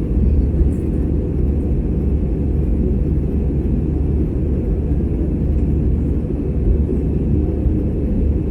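Steady low rumble of an Airbus A320's jet engines and airflow heard inside the passenger cabin, even and unchanging throughout.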